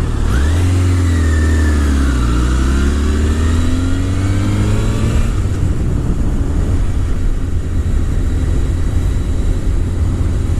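Motorcycle engine revving up briefly, then falling steadily in pitch over about four seconds as the bike brakes hard, then running low and steady under a continuous low rumble.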